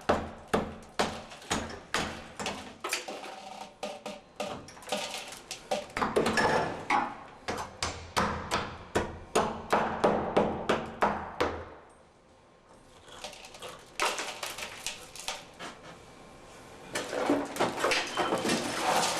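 Hammer blows breaking into a light-concrete wall with wire mesh behind tile, a steady run of sharp knocks about two or three a second. The blows stop for a moment about twelve seconds in, then resume lighter and more irregular.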